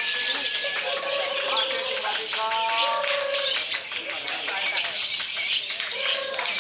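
Many lovebirds chirping and trilling at once in a dense, continuous high-pitched chorus, with a few held tones and voices mixed in below it.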